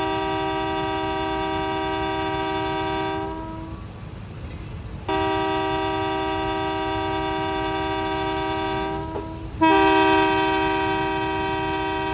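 Train horn sounding three long blasts, each a chord of several tones. The first is already sounding and stops about three and a half seconds in, the second runs from about five to nine seconds, and the third, the loudest, starts about a second later and runs almost to the end.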